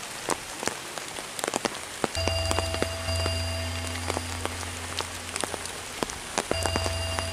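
Steady rain falling, with many single drops ticking sharply on surfaces. About two seconds in, a steady low hum of unknown source starts; it breaks off briefly near the end and resumes.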